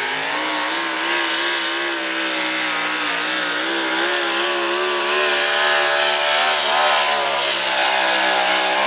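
Modified pulling truck's engine running hard at high revs under load, its pitch wavering up and down as it pulls the sled.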